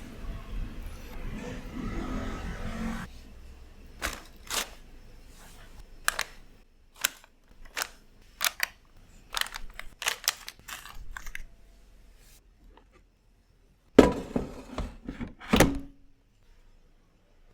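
Kitchen handling sounds during food preparation: a short stretch of rustling and scraping, then a run of sharp clicks and taps, and a few louder knocks near the end.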